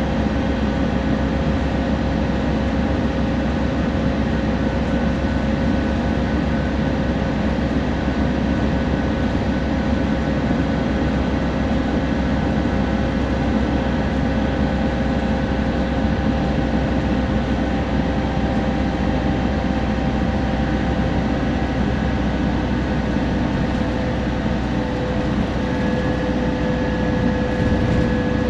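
Temsa Prestij SX bus under way, heard from inside: the diesel engine runs steadily under a heavy low rumble, with a steady whine on top. A higher whine joins near the end.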